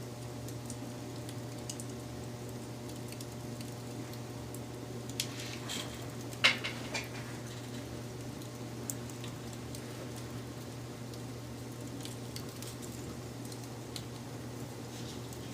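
Wood fire crackling over a steady low rumble, with scattered small pops. A short run of louder cracks comes about five to seven seconds in, the loudest a sharp pop about halfway through.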